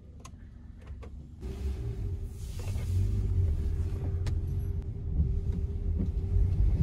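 Inside a car: a few faint clicks, then about a second and a half in the engine starts up and runs with a steady low rumble and hum that grows louder as the car moves off.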